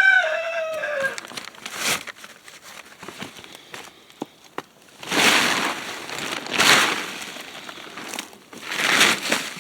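Plastic tarp rustling and crinkling in three loud bursts as it is pulled back, with a few sharp clicks between them. A rooster crows once at the start.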